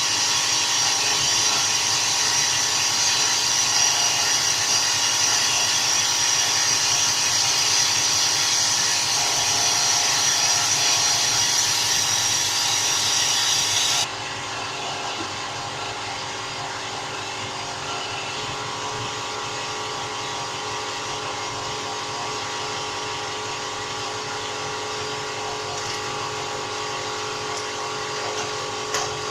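Vacuum machine running steadily, sucking the used carbon-cleaner fluid out of the engine, with a loud hiss. About halfway through, the hiss cuts off suddenly and a quieter, lower steady hum carries on.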